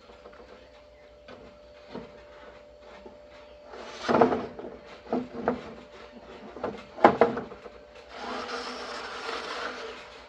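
Work handling sounds: a few sharp knocks and thuds, then a rubbing scrape lasting about two seconds.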